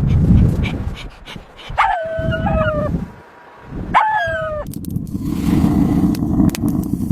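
An animal whimpering: two short, high whining cries about two seconds apart, each holding its pitch and then dropping, over a low rumbling noise.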